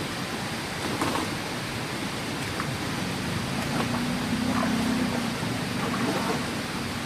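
Steady rushing noise with a few faint ticks, and a faint low hum for a second or two in the middle.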